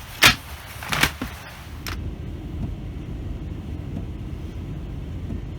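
A few sharp knocks, then a steady low rumble of a car heard from inside, starting abruptly about two seconds in.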